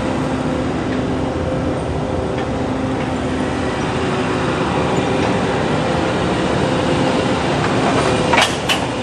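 Heavy equipment engine running steadily, with a couple of sharp clanks near the end.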